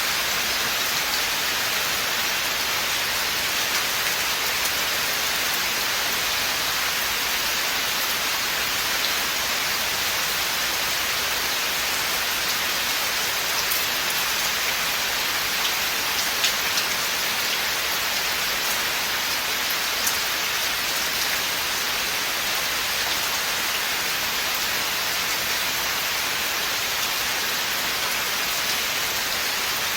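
Steady rain falling on a forest, an even hiss with scattered drops ticking on leaves and surfaces.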